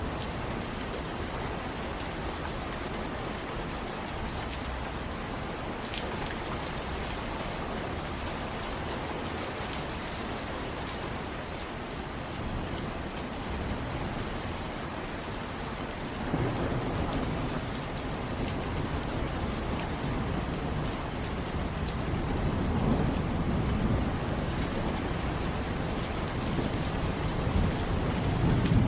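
Steady rain with scattered drops ticking. A low thunder rumble rolls in about halfway through and swells louder near the end.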